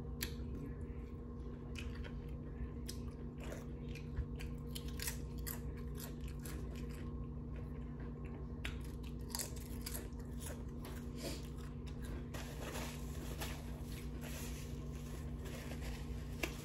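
Close-up chewing and crunching of potato chips, with many sharp, irregular crunches over a steady low hum.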